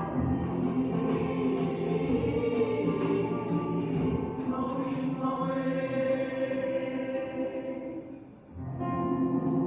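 Mixed choir singing sustained chords over a regular beat of sharp high ticks. It fades out about 8 s in, and a steady ambient tone starts a second later.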